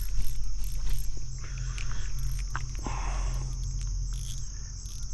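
Steady high-pitched chorus of crickets or similar insects, with a few short clicks and a brief rustle about three seconds in.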